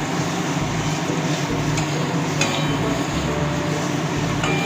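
Paneer cubes frying in oil in a pan, a steady sizzle, with a metal spatula clinking against the pan a few times.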